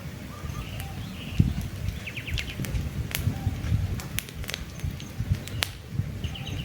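Wood campfire crackling, with frequent sharp pops over a low flame rumble. Small birds chirp in the background, with a quick run of chirps about two seconds in.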